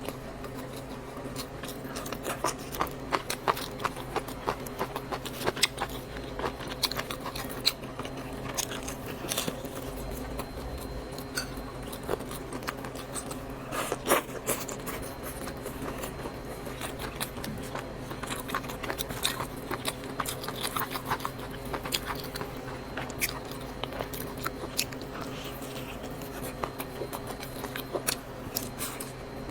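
A person chewing and biting noodles, with many small sharp wet clicks and crunches throughout, over a steady low hum.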